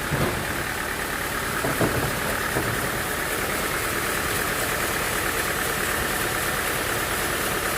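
Sawmill machinery running steadily with an engine-like drone, a few short knocks in the first three seconds.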